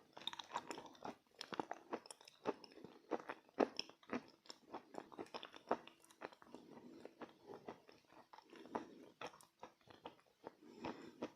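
Close-up chewing of crunchy edible chalk: many irregular, sharp crunches and bites, several a second, with softer wet mouth sounds between them.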